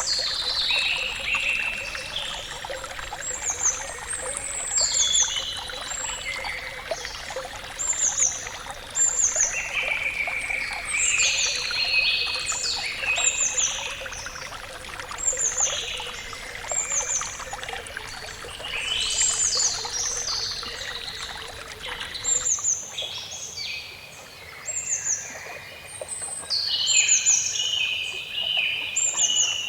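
Several songbirds singing, with short high notes that slide downward repeating every second or so, over a steady wash of flowing water. The water sound cuts off about three-quarters of the way through, leaving the birdsong alone.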